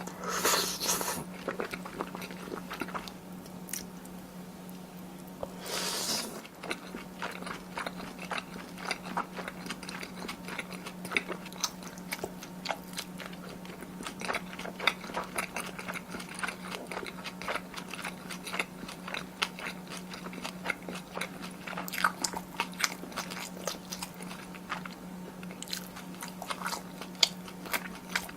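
Close-miked eating sounds: a person chewing and biting through spicy tteokbokki with Chinese glass noodles and cheese, wet clicks and smacks coming steadily. Two louder rushing bursts, each about a second long, come near the start and about six seconds in, over a steady low hum.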